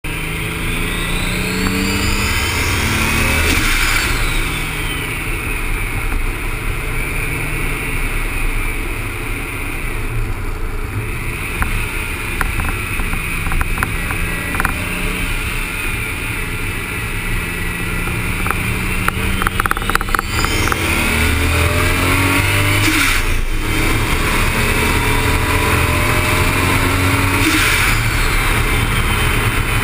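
Toyota Supra's engine pulling hard on track, its pitch climbing through each gear and dropping at the upshifts, three times. Heavy wind and tyre-on-tarmac noise from the camera's mount low on the car.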